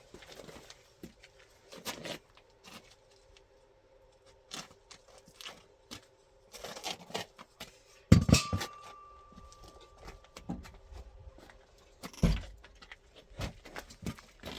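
Scattered knocks and clatters of objects being handled, with a loud knock about eight seconds in that leaves a short ringing tone, and another loud knock about four seconds later.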